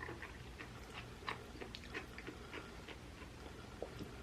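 Faint chewing: soft, scattered mouth clicks and small wet sounds of someone eating a mouthful of soft cooked food.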